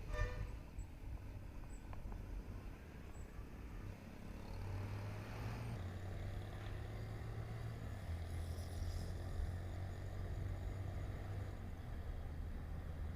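Hero Honda Glamour motorcycle engine running steadily under way, with road noise around it.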